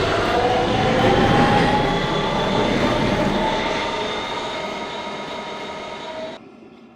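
R160B subway train with Siemens propulsion accelerating out of the station, its motor whine slowly rising in pitch over wheel and rail rumble and fading as it pulls away. The sound drops off abruptly just before the end.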